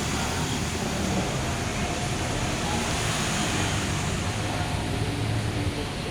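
Steady background noise with a low rumble and a hiss that holds even throughout.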